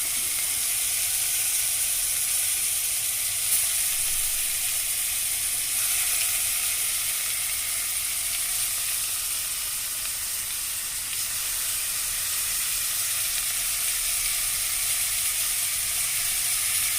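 Marinated chicken pieces frying in oil and butter over a low flame, a steady high sizzle with a small pop about three and a half seconds in.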